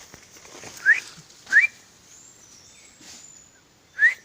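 A person whistling short, rising notes to call a bird: two quick upward whistles about a second apart, then a third near the end.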